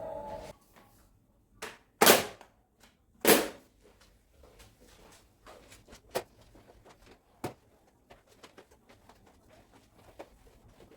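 Two loud sharp knocks about two and three seconds in, followed by lighter clicks and taps of things being handled.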